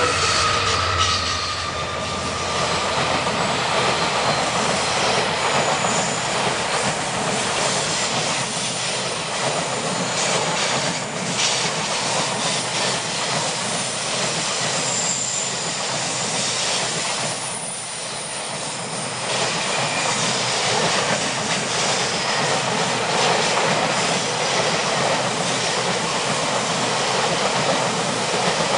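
Vale passenger train on the Vitória a Minas railway rolling past: a steady rumble and rattle of the cars' wheels on the rails, with now and then a faint high wheel squeal. A horn blast dies away in the first second or so.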